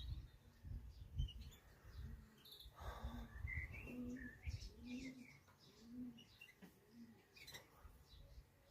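Small birds chirping sporadically while a pigeon coos a run of about five short low notes, roughly one a second. Wind rumbles on the microphone underneath.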